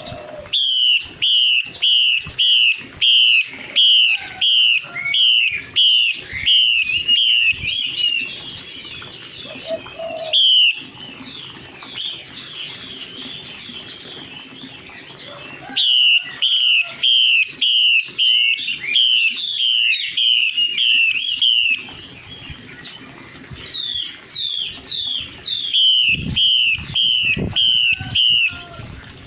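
Chinese hwamei (a laughingthrush) singing: three loud runs of repeated whistled notes, about two a second, with quieter rambling warbles between them.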